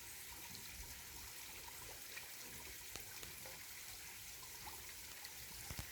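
Mountain valley stream flowing steadily over rocks, an even rushing and trickling of water, with a couple of low thumps near the end.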